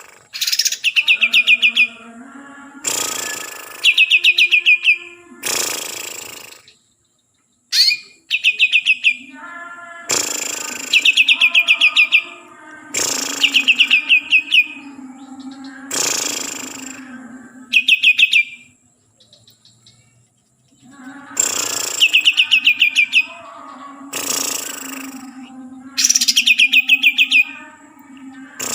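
Cucak ijo (greater green leafbird) singing: repeated phrases of harsh notes each followed by a fast trill, every two to three seconds, with a short pause about two-thirds of the way through.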